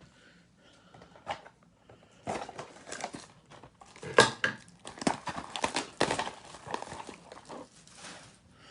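Trading-card blaster box being opened by hand: irregular crinkling, tearing and cardboard clicks, starting about two seconds in after a quiet start.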